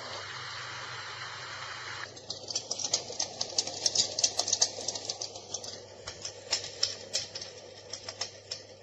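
Dreamegg Pocket Sleep 1 mini white noise machine playing a steady hiss, then about two seconds in switching to a crackling sound with irregular sharp clicks, several a second.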